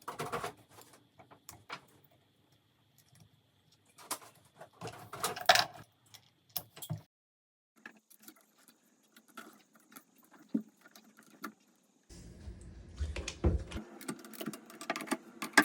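Small metal engine parts clicking and clinking as they are handled and fitted together, in several short bursts of knocks with quiet gaps between.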